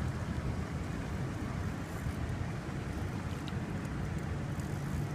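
Wind buffeting the microphone as a low, fluttering rumble, with a steady low engine hum coming in near the end.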